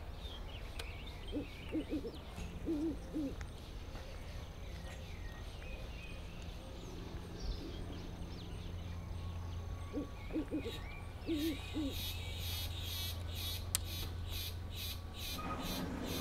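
Outdoor ambience with a bird's low hooting calls, which come in two short clusters, a little after the start and again about ten seconds in. Thin higher chirps and a steady high insect-like tone sit over a low hum. Near the end a fast, even high ticking builds up.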